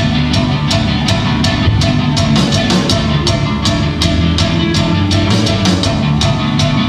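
Rock band playing live: a full drum kit beating steadily over bass and electric guitar, with the drums coming in right at the start.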